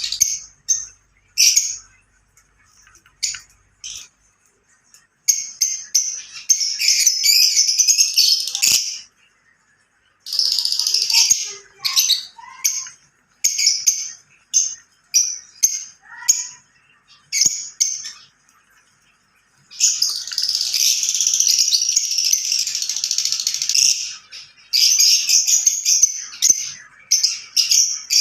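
Fischer's lovebirds calling in high-pitched chirps and squawks: short sharp calls broken by stretches of continuous shrill chatter a few seconds long.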